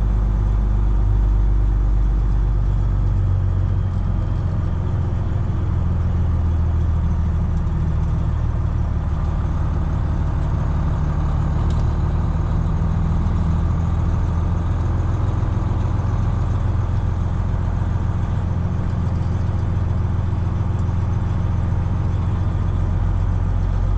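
Detroit Diesel 12.7-litre engine of a Freightliner Classic XL semi truck running with a steady, low drone.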